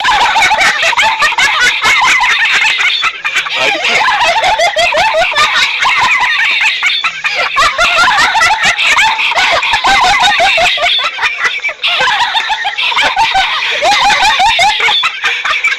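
High-pitched giggling laughter that runs on without a break, in quick rising and falling bursts.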